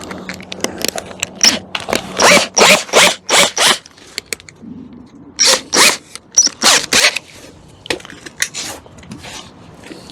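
Short rasping scrapes of hand tool work on the car's sheet metal, in two runs of several strokes with small clicks between.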